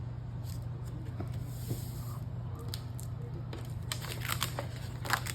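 Paper being handled and pressed into place: scattered light rustles and crinkles, with a denser flurry of sharp paper rustles near the end, over a steady low hum.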